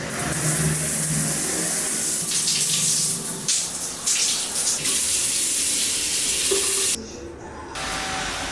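Steady rushing, splashing water, which cuts off abruptly about seven seconds in, giving way to a quieter background.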